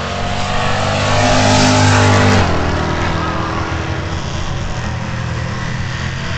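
V8 car engine revved up and held high for about a second, then dropped suddenly back to a lumpy low rumble about two and a half seconds in.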